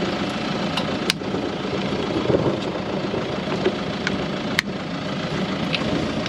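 Vehicle engine idling steadily, with two sharp clicks, one about a second in and one past four and a half seconds.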